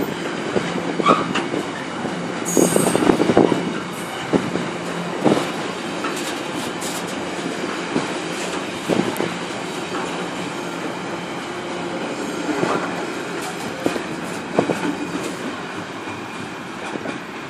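Container freight wagons rolling past: a steady rumble with irregular clacks and knocks from the wheels, and a brief high wheel squeal about two and a half seconds in. The noise eases a little near the end.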